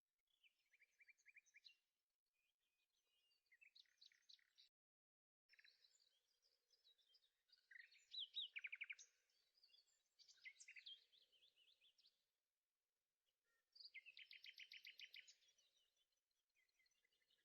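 Faint birdsong: a series of short phrases of rapid chirps and trills, with the loudest bursts a little past the middle and again near the end.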